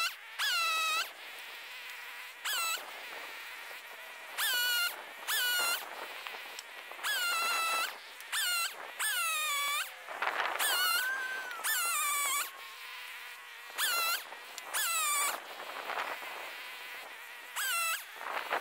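A bird calling over and over close by: short, high, clear notes that each slide downward, about one a second and in little clusters, just after a small chainsaw cuts out.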